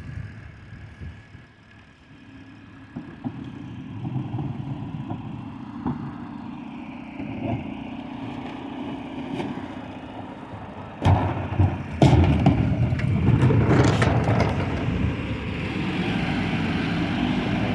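Recycling truck's diesel engine running and drawing closer, growing louder, with a few sharp metallic clanks about eleven to fourteen seconds in as it arrives.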